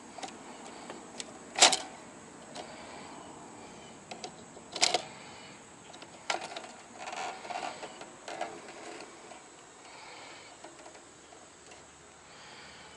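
Hand work on a circuit breaker being pried out of an electrical panel: scattered sharp clicks and knocks, the two loudest about one and a half seconds and five seconds in, with small plastic and metal rattles in between.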